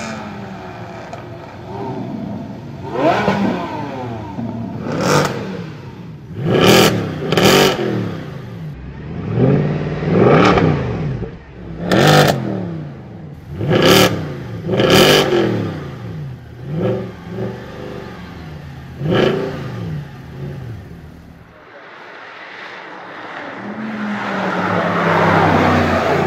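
Mercedes C63 AMG's 6.2-litre V8 revved hard over and over, each rev climbing and falling back, with sharp exhaust cracks at several of the peaks. Near the end the car pulls away under hard acceleration, its engine note climbing steadily.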